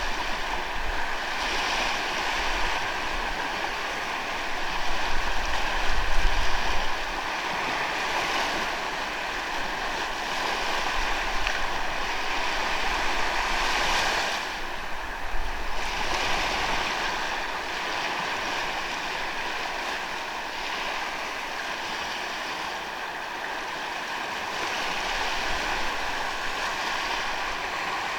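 Sea waves washing onto a beach: continuous surf that swells and eases in slow surges, loudest about five to seven seconds in.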